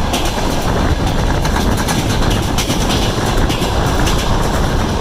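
Train wheels clattering over the rail joints, with a few sharp clacks over the loud, steady rumble of the moving railway carriage.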